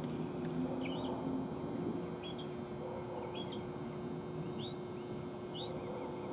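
A bird chirping repeatedly: short, high notes one or two a second, over a steady low hum.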